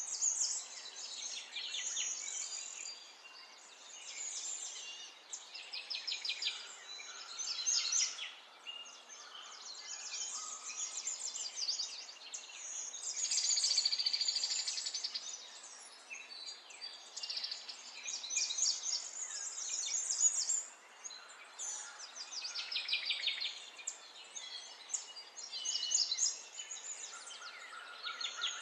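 Songbirds singing: one rapid trill or chirping phrase after another, with hardly a pause.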